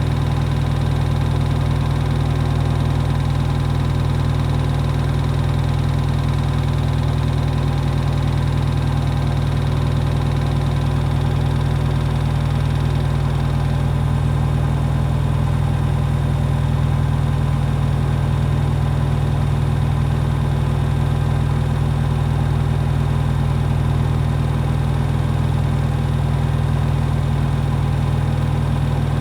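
Hoover HW411AMC washing machine in its final spin, the drum turning steadily at high speed. It makes a constant, loud low hum with several steady tones over it.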